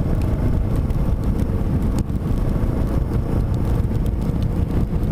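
Steady low rumble of the BMW G650GS's single-cylinder engine and wind noise on the microphone while riding, with a few faint clicks.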